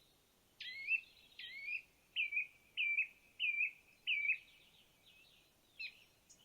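A bird singing: a run of about six loud, repeated chirping notes, then a softer trill.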